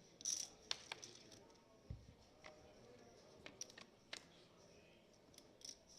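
Faint scattered clicks and taps of cards and chips at a poker table as the flop is dealt, with a cluster of louder taps under a second in.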